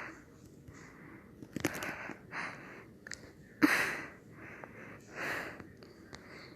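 A person's short breathy puffs of air close to the microphone, about seven in a row, with the loudest a little past the middle.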